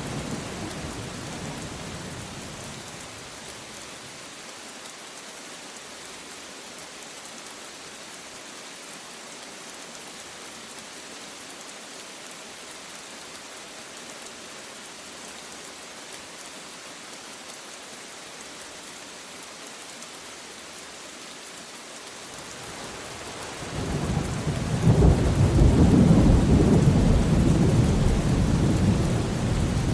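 Steady rain falling with an even hiss. A low rumble of thunder dies away over the first few seconds, and about three-quarters of the way through a long, loud roll of thunder swells up and is still rumbling at the close.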